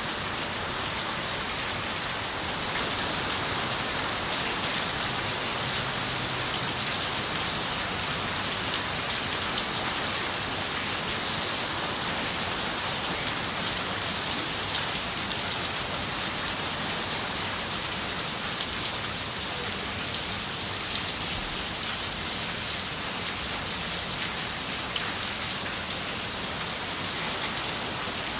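Steady rain on a window: a constant hiss with scattered sharper ticks of individual drops striking the glass. It swells slightly about three seconds in, then holds even.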